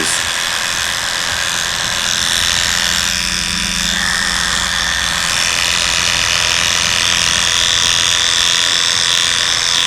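Electric dog grooming clippers with a number 10 blade running steadily while shaving the inside of a spaniel's ear flaps.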